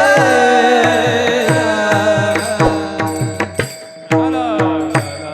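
Marathi kirtan music: a sung note fades over the first couple of seconds above steady held chords, with a hand drum beating about three strokes a second with a bending bass and sharp metallic clicks. The music dips briefly about four seconds in, then comes back loudly.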